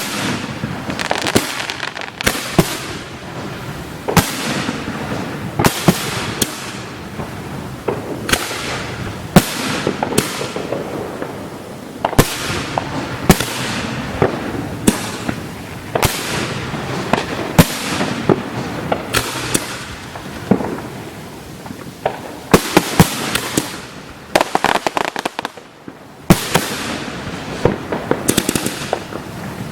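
Fireworks display heard close up: a continuous run of sharp shell reports and bangs, one every second or so, over steady crackling. Near the end a quick flurry of reports comes close together.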